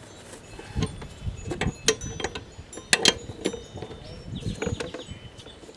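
Scattered metallic clicks, clinks and knocks from hand tools and mower parts being handled, a few leaving a brief ring.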